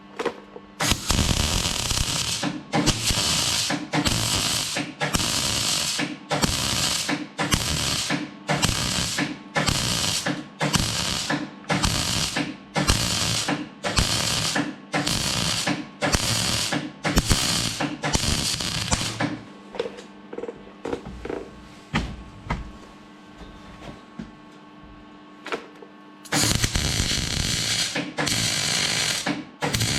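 Electric welding arc crackling in short repeated bursts, about one and a half a second, as small patch plates are stitch-welded onto a tractor exhaust muffler. A steady electrical hum from the welder runs underneath and is left alone for several seconds in a pause about two-thirds through. A longer unbroken weld run starts near the end.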